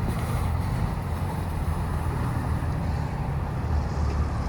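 Vehicle engine running steadily, a low rumble with no change in pitch.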